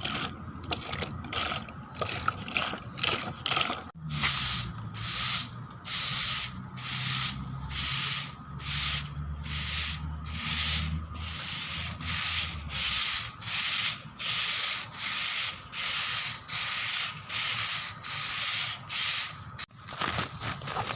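Repeated rubbing or scraping strokes, sanding-like: light quick scratches at first, then from about four seconds in a steady run of louder strokes, about one and a half a second, until shortly before the end.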